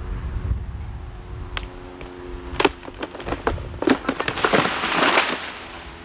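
A tree giving way: its wood cracks and snaps sharply several times, then the tree comes down in a loud rushing crash of branches and leaves about four and a half seconds in.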